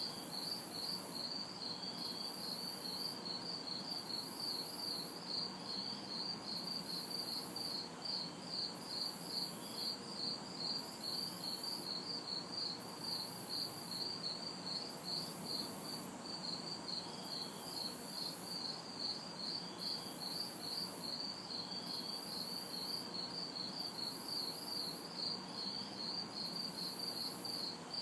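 A chorus of crickets chirping in a steady, quick pulse, with a higher-pitched insect trill switching on and off about once a second. Faint distant traffic hum lies underneath.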